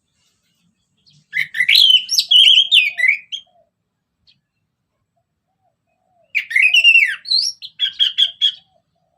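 Orange-headed thrush singing two loud, varied song phrases of about two seconds each: the first begins about a second in, and the second about six seconds in, after a pause.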